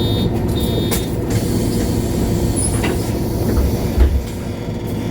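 MAN Lion's City G articulated city bus running, with a steady low engine and road rumble and a few rattles and clicks. A short high tone sounds twice near the start, and a low knock about four seconds in is the loudest moment.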